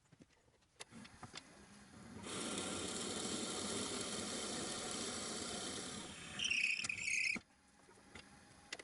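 Drill bit boring into a spinning wood workpiece on a lathe. The cutting runs steadily for about five seconds, a high squeal comes from the cut near the end, and then it stops suddenly.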